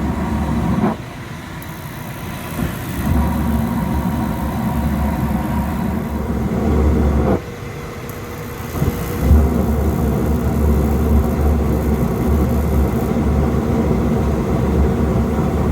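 Carrier gas-fired heating unit running with a steady mechanical hum, just after a reset following an ignition lockout. The hum drops away twice, about a second in and past seven seconds, and comes back a couple of seconds later each time.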